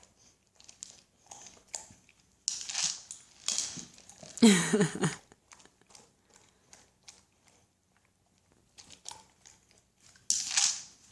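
Boxer dog chewing and crunching dry kibble shaken out of a Kong Wobbler, with scattered small clicks and a few louder crunching bursts.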